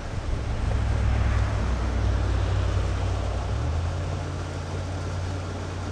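A motor engine running with a steady low drone; its pitch shifts upward about three and a half seconds in.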